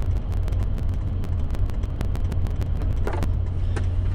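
Motor vehicle engine running with a steady low rumble, with many small irregular clicks over it.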